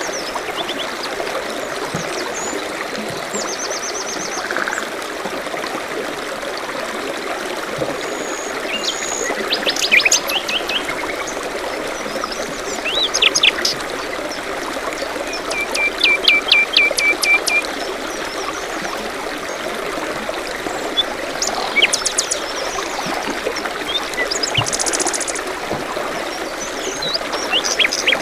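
A stream trickling and splashing steadily, with several small birds calling and singing over it: short chirps, a quick trill, and a run of about eight even repeated notes midway.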